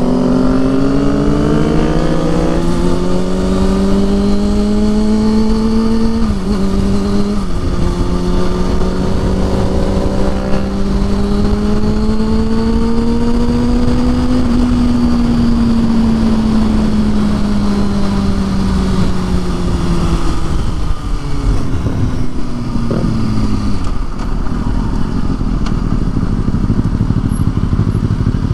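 Motorcycle engine pulling up through the gears: its pitch climbs, drops at a shift about six seconds in and climbs again, then falls away as the throttle eases and the bike slows. A steady rush of wind and road noise runs under it.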